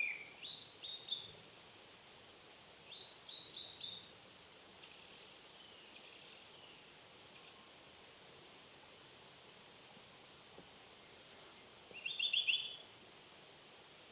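Woodland birds calling in short bursts of quick, high chirps: clusters at the start, about three seconds in and near the end, with fainter calls between, over a steady background hiss.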